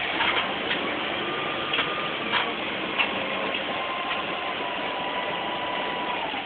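Steady rain hissing, with scattered sharp taps of drops striking nearby surfaces.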